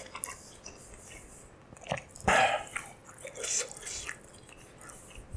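Close-miked chewing of a hot Swedish meatball: soft, wet, irregular mouth sounds, with a louder burst about two seconds in.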